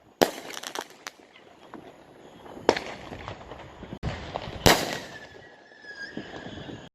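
Aerial firework mortar shells going off: three loud bangs about two seconds apart, each echoing, with smaller pops in between.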